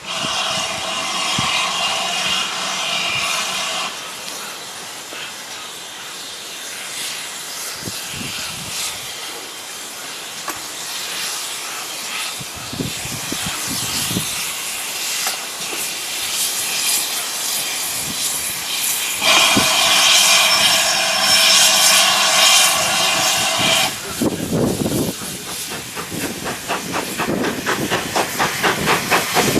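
Steam locomotive hissing steam, with two long steady whistle blasts, one at the start and one about two-thirds of the way in. Near the end come regular exhaust beats, quickening as the engine gets under way.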